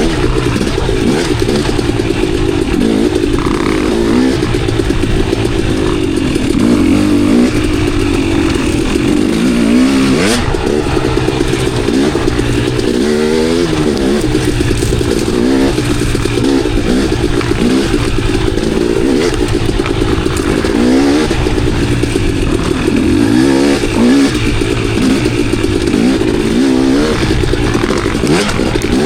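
Dirt bike engine revving up and down over and over as it is ridden along a trail, with a sharp knock about ten seconds in.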